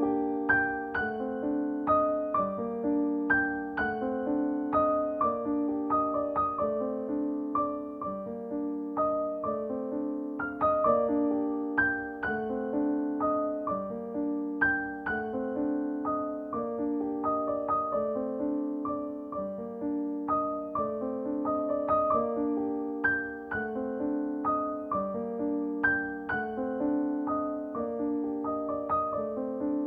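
Background music: a soft solo piano piece with a steady flow of notes, about two a second.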